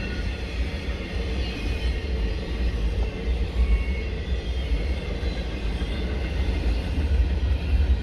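Freight train cars rolling past at speed, a steady deep rumble from the wheels on the rails.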